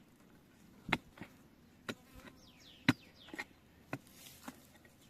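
A digging tool striking into earth and roots in a deep hole while digging out wild yam tubers: a series of sharp knocks roughly once a second, the loudest nearly three seconds in. Faint bird chirps sound between the strikes.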